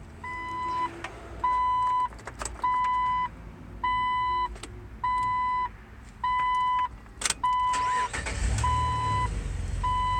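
Car's electronic warning chime: one steady tone sounding about once every 1.2 seconds, nine times. A few sharp clicks fall between the tones, and from about eight seconds in a low rumble joins.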